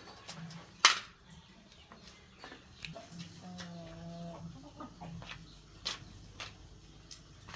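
Scattered sharp clicks and taps of hand work on a refrigerator repair, the loudest about a second in. Near the middle a hen clucks briefly.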